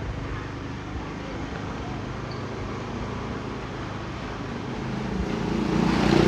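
Small motorcycle engine running steadily while riding along, with a rush of noise that swells louder near the end.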